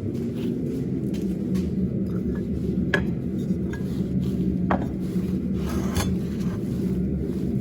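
A steady low rumble with a few sharp metal clinks and scrapes over it, about three, five and six seconds in.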